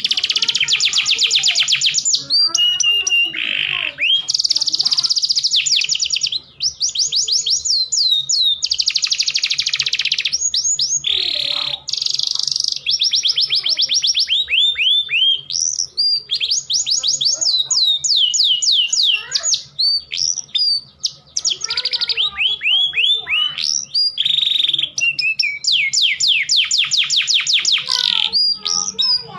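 Domestic canary in full song: a continuous, high-pitched run of fast rolling trills and rapid series of short descending notes, with only brief pauses between phrases. This is the rolling breeding-season song of a male canary in peak condition.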